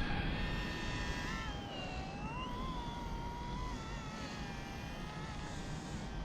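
Micro RC helicopter's electric motor and rotor whining, the pitch dipping and rising as the throttle changes while it fights strong wind. A low rumble of wind on the microphone runs underneath.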